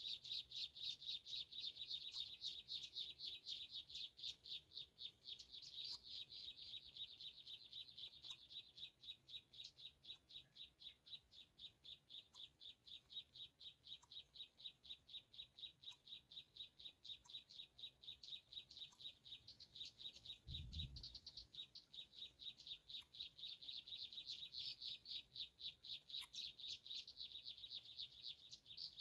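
High, rapid chirping repeated about four or five times a second without a break, typical of greater coucal nestlings begging for food. A single low thump sounds about two-thirds of the way through.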